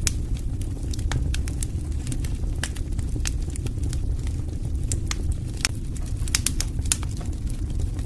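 Wood fire burning, with a steady low rumble of flames and irregular sharp crackles and pops of burning wood, several a second.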